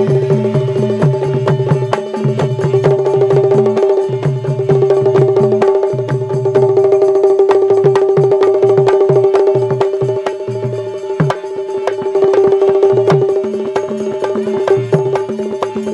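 Instrumental interlude of Bundeli folk music: a fast hand-drum rhythm played over one steady held tone, with the low drum notes dropping out for a few seconds in the middle.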